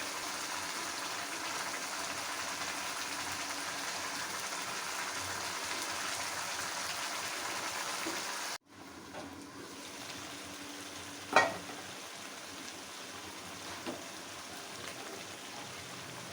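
Chicken curry frying in a pan with a steady sizzle. It cuts off suddenly about halfway through, then the sizzle goes on more quietly, with one sharp knock a few seconds later.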